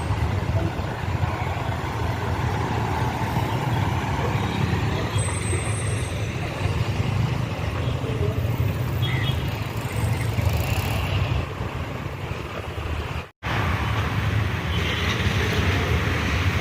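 Heavy engine running with a steady low rumble, cut off briefly about thirteen seconds in.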